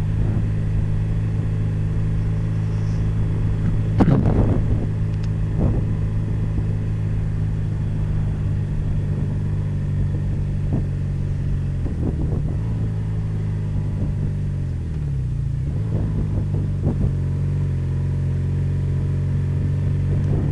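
Honda motorcycle engine running at a steady cruising pace under way. Its note drops about two-thirds of the way through as the bike slows, then climbs again, with a few brief bursts of wind noise.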